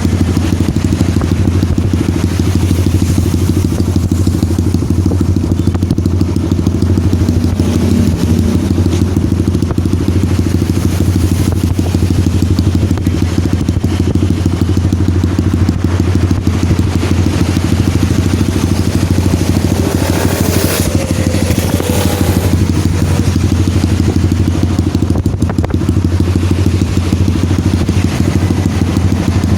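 Kawasaki KLX 150 single-cylinder four-stroke engine idling steadily through an aftermarket racing exhaust, with a deep, even exhaust note.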